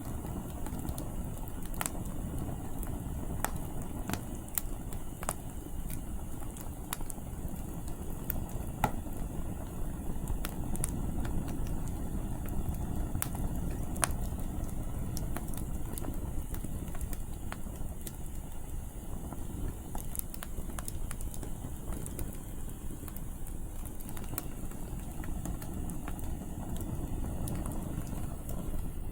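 Firewood crackling and popping in an outdoor campfire, with many scattered sharp pops over a steady low rumble of wind.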